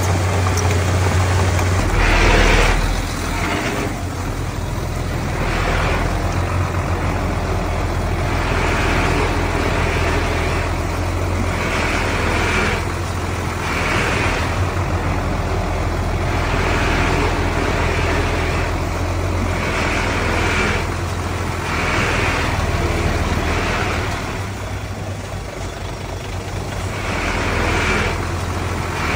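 Diesel engine of a Komatsu D31P bulldozer running steadily under work, with short high-pitched bursts every second or two.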